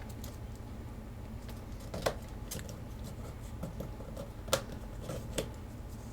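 A square sheet of origami paper being folded and creased by hand: a few short, crisp paper crackles and taps, the sharpest about two seconds in and again past the middle, over a low steady hum.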